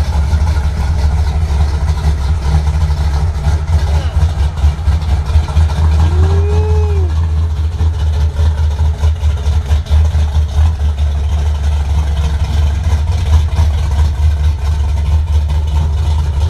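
Vehicle engine running with a steady, heavy low rumble.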